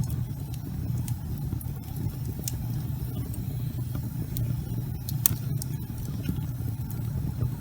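Wood fire burning in a fireplace: a steady low rumble of flames with scattered crackles and pops, and one sharper pop about five seconds in.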